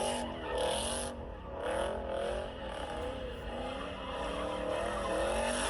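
Car engine in a car meet video, its pitch rising and falling over and over as it is revved, over a steady low rumble.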